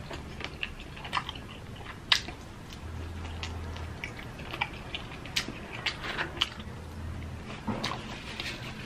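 Chewing and biting into Jollibee Chickenjoy fried chicken, with many scattered short, sharp crunches of the crispy coating.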